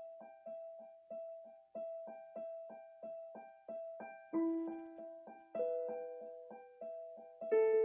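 Slow, calm solo piano: one note struck over and over, about every half second, each fading before the next, with lower notes joining in now and then.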